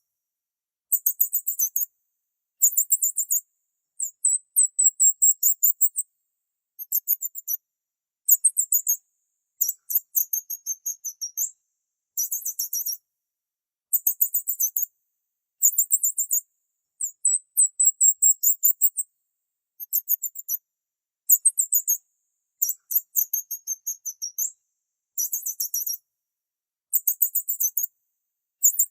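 Small birds chirping in short, very high-pitched phrases of rapid notes, each about a second long, repeating again and again with brief silent gaps.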